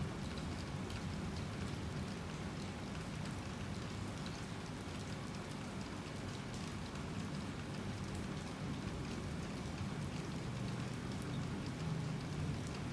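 Heavy rain falling steadily, with scattered individual drop taps over an even rushing noise.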